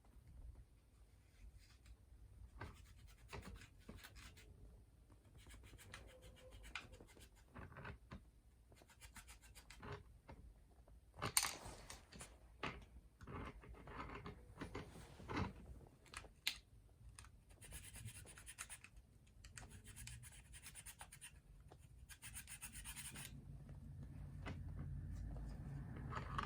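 Faint scratching, rubbing and light clicks of hands and small tools working on a chainsaw's ignition points, with a few short scraping stretches about two-thirds of the way through.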